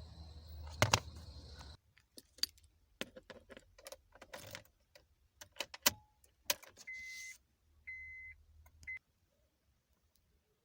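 A steady low hum cuts off about two seconds in, followed by keys jangling and a run of sharp clicks and rattles from handling. Near the end come three short, high electronic beeps.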